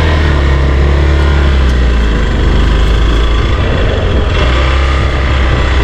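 Honda CRF Rally motorcycle's single-cylinder engine running steadily under way, with wind and road noise over it. The engine note shifts about four seconds in.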